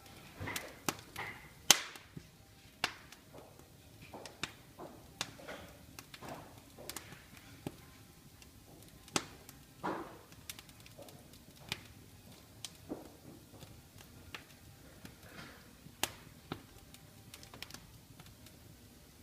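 Wood fire crackling in a fireplace: irregular sharp pops and snaps from the burning logs, the loudest just under two seconds in.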